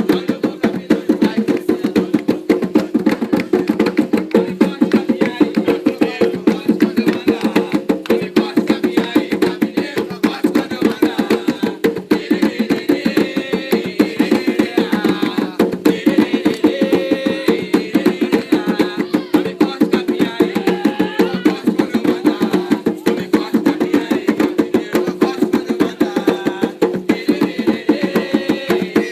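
Hand drums played in a fast, steady, driving rhythm, with faint singing voices over them.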